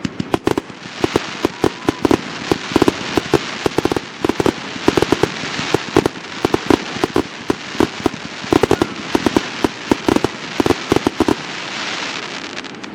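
Fireworks display: a rapid, dense run of shell bursts and bangs over a continuous crackling hiss, with no let-up throughout.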